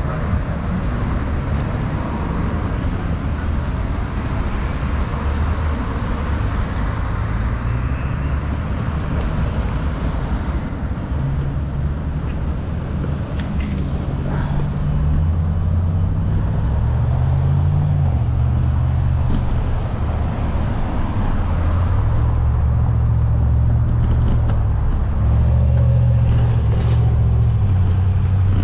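Wind buffeting the microphone on a moving bike, a heavy low rumble mixed with road noise that grows louder about halfway through.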